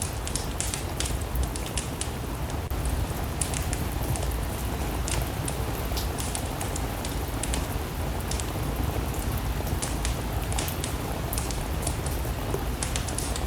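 Steady rain mixed with a crackling wood fire: an even wash of noise with many sharp little crackles scattered throughout.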